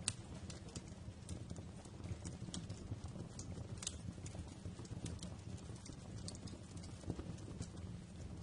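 Wood fire crackling in a fireplace: irregular sharp pops and snaps over a low, steady rumble of burning. The loudest snap comes right at the start, with another strong one about four seconds in.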